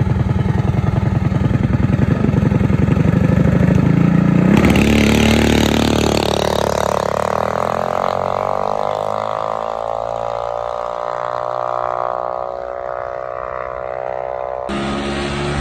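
Minibike engine running close by with rapid low firing pulses, rising a little in pitch. After an abrupt cut about four and a half seconds in, a minibike runs with its pitch falling steadily. Another abrupt cut comes near the end.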